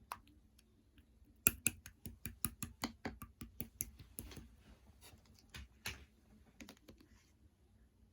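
Slime mixed with pearl beads being pressed and squished, giving a quick run of crisp clicks and pops, several a second and loudest at first.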